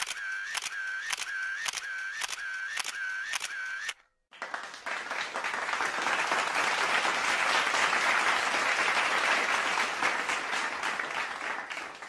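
Two stock sound effects in turn. First a run of sharp clicks, about two a second, with a tone that dips and rises between each click, stopping about four seconds in. Then, after a brief silence, applause that swells and fades.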